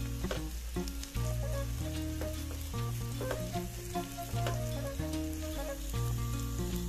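Diced red onion and green bell pepper sizzling in oil in a nonstick frying pan, with a spatula scraping and clicking against the pan as it stirs. Background music with a deep bass line plays underneath.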